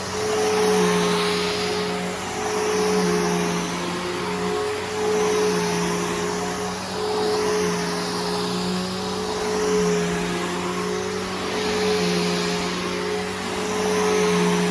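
Bissell Powerforce Helix Turbo upright vacuum cleaner running while vacuuming. Its steady motor hum and airflow rush swell and ease about every two seconds as it is worked back and forth.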